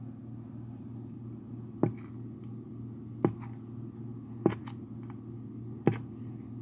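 Female turtle making short, sharp sounds while eating, four times about a second and a half apart, over a steady low hum.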